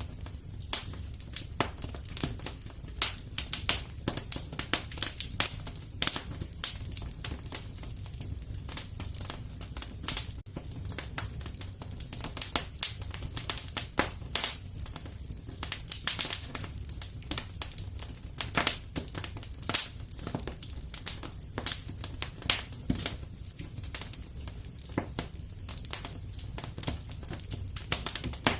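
Wood fire crackling in a fireplace: irregular sharp pops and snaps, several a second at times, over a low steady rumble.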